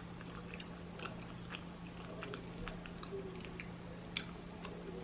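Close-up chewing of food, with small wet mouth clicks and smacks scattered throughout, over a steady low hum.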